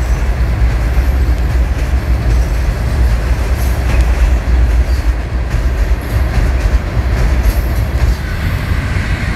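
A train passing close by, a steady loud rumble of rail cars on the track.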